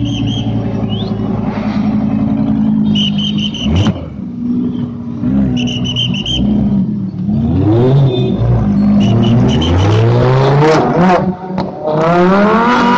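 Supercar engines revving: the engine note holds, then rises and falls several times as the cars are blipped. Short shrill trilling whistle bursts come through four times.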